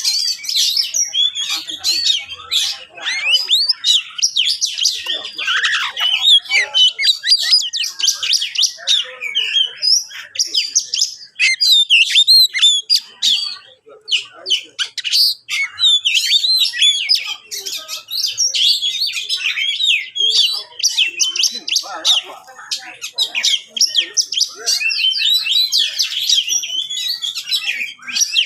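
Oriental magpie-robin (kacer) singing without pause: a fast, varied stream of whistles, chirps and harsher notes, many sliding up or down. It is the bird's excited fighting song, sung in full aggression at a rival.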